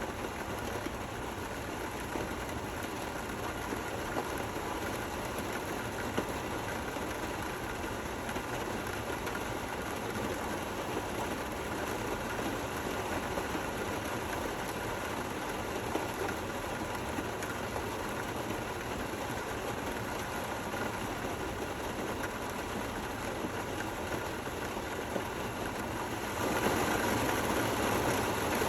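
Steady, gentle rainfall with no thunder, a little louder for the last couple of seconds.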